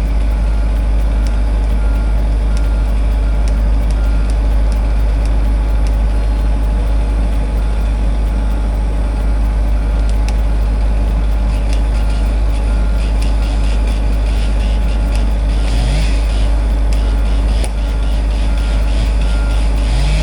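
John Deere 60G compact excavator's Yanmar diesel engine running steadily with a deep drone. Brief crackles come about three-quarters of the way through and again at the very end.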